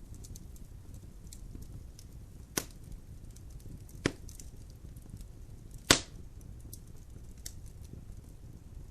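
Logs burning in a fireplace: a low steady rush of the fire with small crackles throughout, and three sharp pops from the wood, about two and a half, four and six seconds in, the last the loudest.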